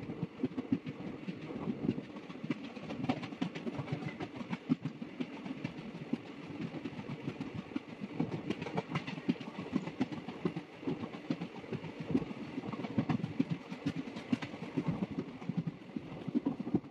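Passenger train running along the track, its wheels and coaches giving a steady rumble with a dense, irregular clickety-clack of sharp clicks.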